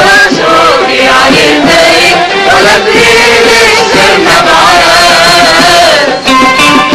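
Arabic orchestra playing with a group of voices singing together, as in a chorus.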